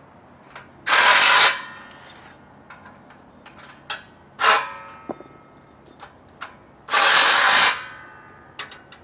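A power drill run in three short bursts as bolts are driven into a steel power rack's frame: two loud runs of under a second, about a second in and about seven seconds in, and a briefer one between them. Small clicks of hardware are heard in between.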